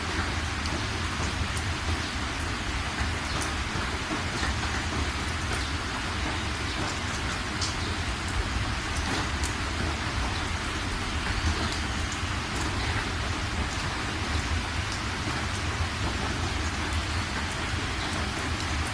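Steady rain falling: an even hiss with scattered sharp drop ticks over a constant low rumble.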